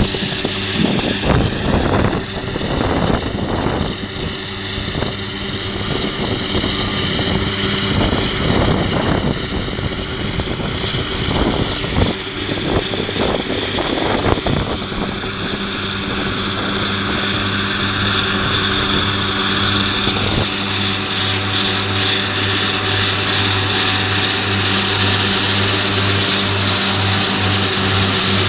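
New Holland T7.315's 6.7-litre six-cylinder diesel running with its Kuhn triple disc mower conditioners, a steady engine hum with a high whine on top. It sounds uneven and gusty for the first half, then settles to a very steady drone.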